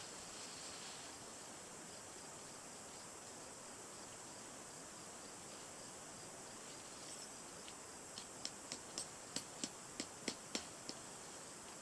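Faint steady high-pitched hiss, then a quick run of about a dozen sharp clicks or taps, roughly three or four a second, near the end.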